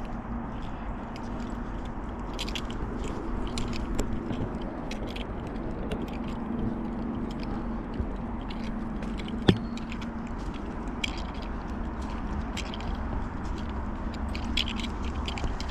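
Footsteps crunching on a park trail: irregular small crackles and clicks over a steady background hiss, with one sharper click about nine and a half seconds in.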